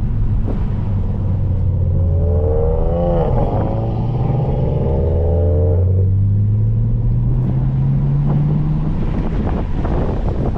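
Car engine pulling steadily with the windows open, its drone rising gradually in pitch as it accelerates for several seconds, over constant road and wind noise. From about two to six seconds in, a second, higher-pitched engine note is heard, dipping in pitch around three seconds in.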